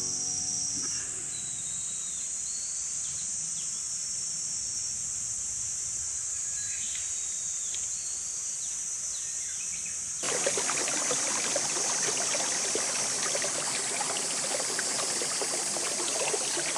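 Forest ambience: a steady high insect drone with repeated short, falling bird calls for about ten seconds, then an abrupt change to the rush of flowing stream water under the insects.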